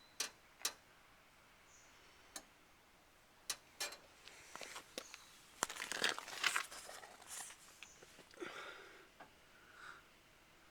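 A few sharp clicks, then a cluster of brief rustling, crinkling noises through the middle; no engine is running.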